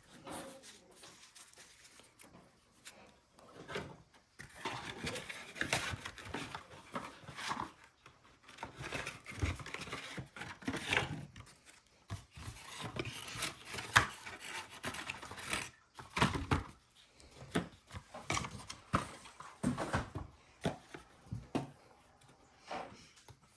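Trading card boxes, packs and cards being handled and opened: irregular rubbing, rustling and tearing of cardboard and pack wrappers, with cards sliding and tapping. It is sparse for the first few seconds, then busier.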